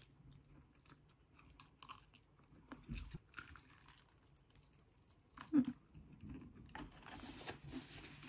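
Close-up chewing of crispy fried chicken, with small crunches and wet mouth clicks scattered through, a firmer crunch about halfway in.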